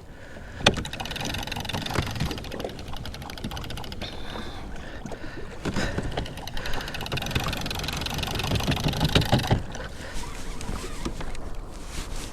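A fishing kayak on the water: water moving against the hull, with a sharp click a little under a second in and scattered knocks and rattles of gear being handled.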